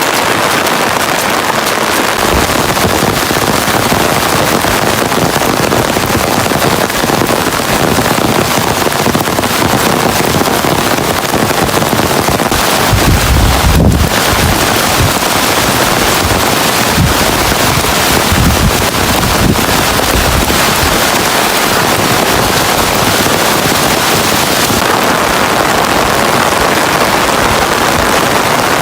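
Heavy rain falling steadily as a loud, even hiss and patter, with a few low buffets of wind on the microphone around the middle.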